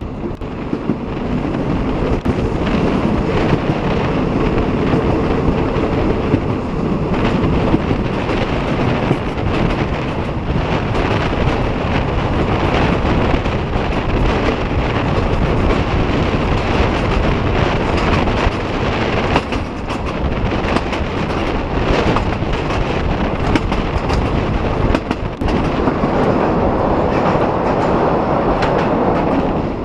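A railway train rolling past, its wheels clacking over the rail joints in a steady stream of knocks under a continuous rumble.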